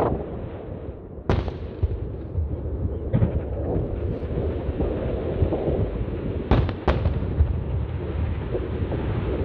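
Aerial fireworks bursting: a sharp bang about a second in, a fainter one around three seconds, and two bangs in quick succession near seven seconds, over a steady low rumble.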